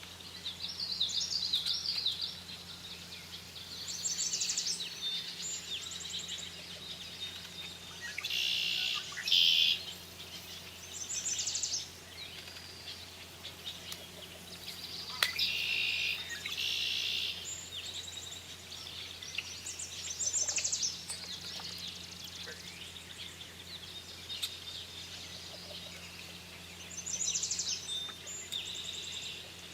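Birds singing outdoors in short, high, chirping phrases that come back every few seconds, over a steady low hum.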